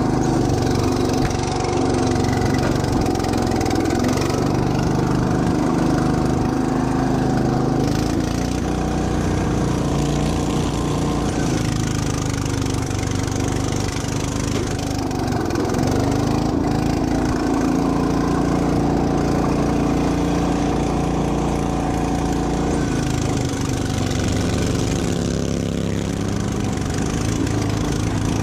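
Riding lawn mower engine running, its pitch dipping and picking back up a few times as the throttle and load change.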